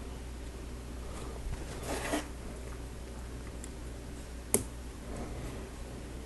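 Plastic Lego pieces handled over a steady low hum: a short rustle about two seconds in, then a single sharp click about four and a half seconds in as a piece is pressed into place.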